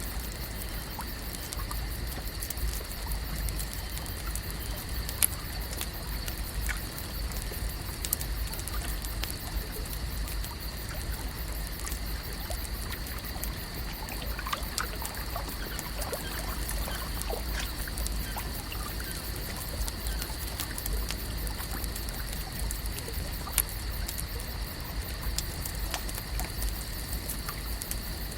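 Lake-shore water ambience: a steady trickling, lapping wash of water with many small ticks and a few louder clicks, over two faint steady high tones and a low rumble.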